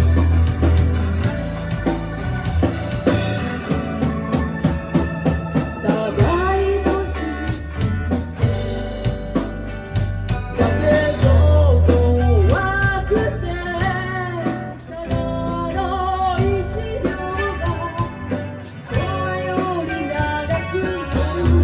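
Live band music with bass, drums, guitar and keyboard playing an instrumental passage between sung verses, with a lead melody of bending, sliding notes.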